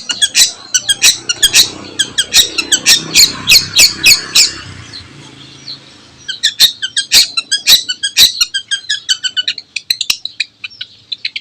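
Long-tailed shrike (cendet) singing in full voice: fast runs of sharp, harsh chirps and squawks, breaking off briefly about halfway through before starting again.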